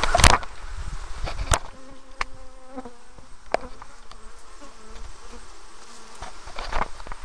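Honeybees buzzing at an open hive, with a steady hum from bees close by through the middle. There is a loud knock right at the start and another about a second and a half in, with a few softer clicks later.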